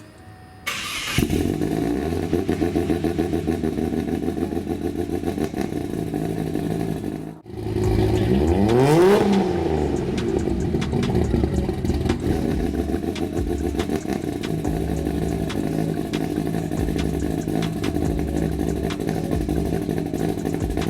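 Modified Ford Falcon Barra straight-six engine. It comes in about a second in and runs at a steady idle. About seven and a half seconds in, the sound breaks off briefly. Then one throttle blip rises and falls in pitch, and the engine settles back to idle.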